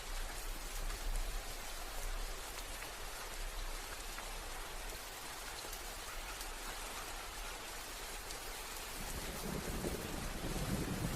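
Steady rain falling, with a low rumble of thunder starting to build near the end.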